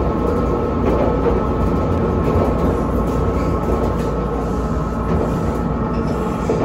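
Steady running noise inside a moving JR Kyushu 787-series express train (the 36ぷらす3), heard from the vestibule deck. It is an even rumble of the car running on the rails.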